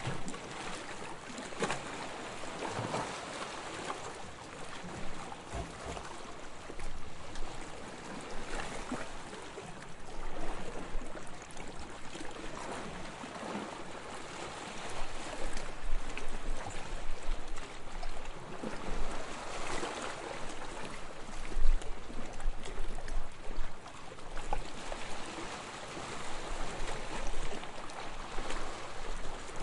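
Small waves lapping on a sandy shore: a continuous wash of water that swells and eases every few seconds, loudest about two-thirds of the way through.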